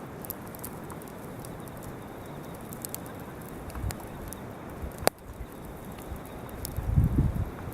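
Wood bonfire crackling, with scattered sharp pops and one louder snap about five seconds in. A low rumble comes near the end.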